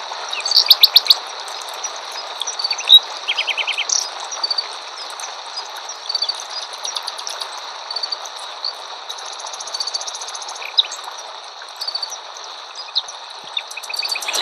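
Several birds chirping and calling outdoors, with short repeated notes and a quick trill about three seconds in, over a steady background hiss.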